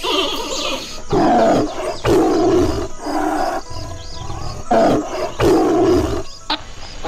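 Tiger roaring: about five rough, loud roars in quick succession, starting about a second in, each lasting under a second.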